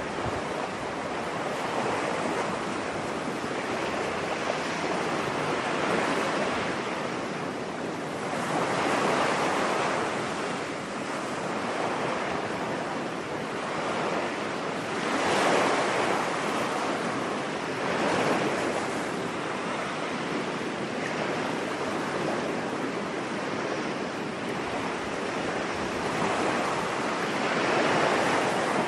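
Ocean waves breaking and washing on a beach: a steady rush that swells louder every several seconds as each wave comes in.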